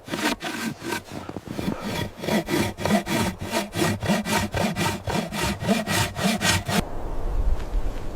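Hand saw cutting through wood in quick, even back-and-forth strokes, stopping about seven seconds in; a low, steady rumble of wind remains after.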